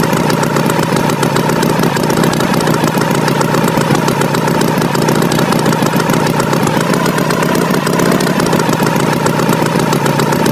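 Tractor engine sound effect running steadily.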